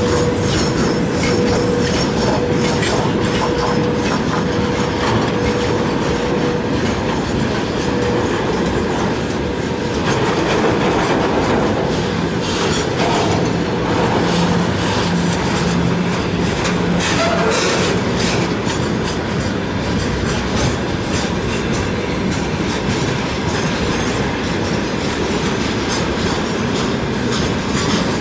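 Railway cars rolling past close by at speed, a steady loud rush of wheels on rail with rapid clacking over rail joints. A steady tone sounds through the first several seconds, and a lower one around the middle.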